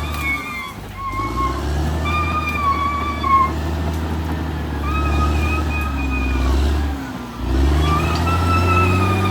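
Caterpillar D6R XL bulldozer's diesel engine running under load, its note dipping briefly twice, about half a second in and again about seven seconds in. A high wavering squeal comes and goes over it in stretches of about a second.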